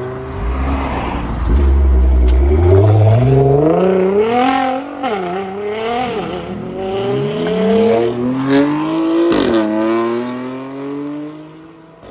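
Sports car engine accelerating hard away, its note climbing and dropping back several times as it shifts up through the gears, with a brief crackle from the exhaust about nine seconds in, then fading into the distance.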